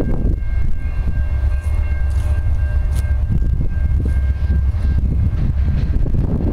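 Low rumble of an approaching diesel freight train led by a BNSF SD70MAC, still far off, with faint steady high tones over it.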